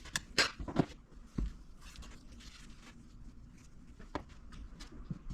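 A few sharp clicks and knocks, with one duller thump about a second and a half in, then faint room tone with a single click near the end: parts or tools being handled during an engine teardown.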